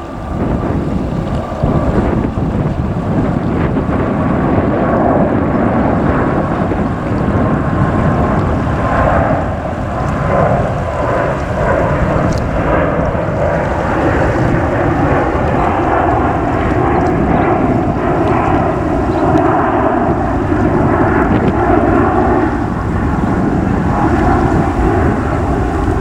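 Airbus A350-1000's Rolls-Royce Trent XWB-97 turbofans at takeoff power, a loud, steady jet rumble. A faint whine slowly falls in pitch over the first several seconds.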